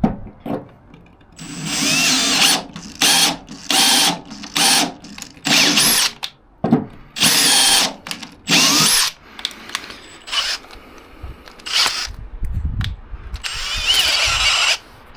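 Power drill driving an M8 tap to cut a thread in thick steel plate, run in short trigger bursts, each a rising motor whine, about eight in quick succession, then a pause and one more near the end. The drill's chuck is slipping on the tap.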